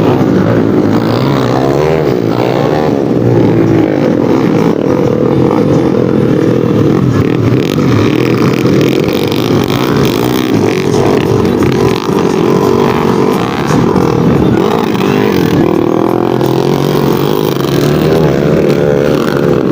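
Several underbone motorcycles' small single-cylinder four-stroke engines racing on a motocross track, revving up and down continuously as they accelerate and back off.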